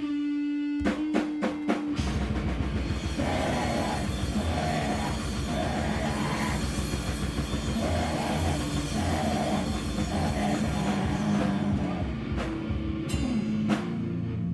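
A live band playing loud, heavy noise rock with a full drum kit. A held note and a few separate drum hits in the first two seconds, then a dense wall of distorted sound, with a few more separate hits near the end.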